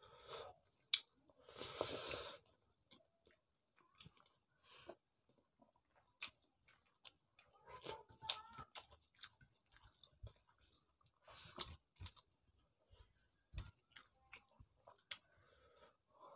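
Faint eating sounds of people eating rice and fish curry with their hands: soft chewing, with scattered small clicks and a few short noisy bursts.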